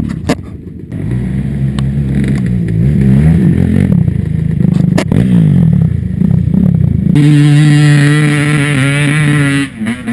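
Small off-road vehicle engine revving up and down under load, then held at a steady, loud pitch for about two and a half seconds before dropping off near the end, as the machine climbs slowly up the dock.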